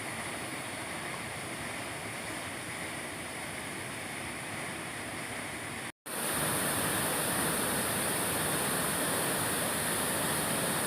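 Waterfall rushing, a steady roar of falling water; it drops out for a moment about six seconds in and comes back louder.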